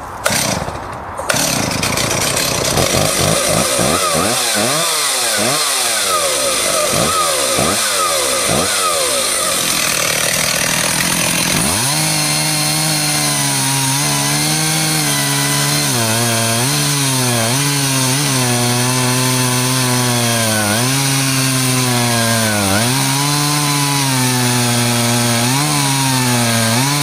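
Stihl 038 AV Super two-stroke chainsaw cutting wood, its engine speed swinging up and down under load for roughly the first ten seconds. It then runs out of the cut at a steady speed, dipping briefly in pitch several times.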